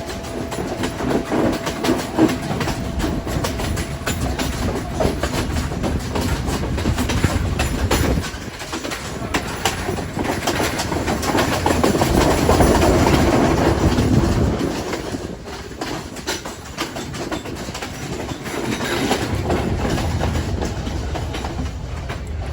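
Moving train running along the track, its wheels clattering over the rails in many short clicks, with a louder stretch in the middle that drops off about two-thirds of the way through.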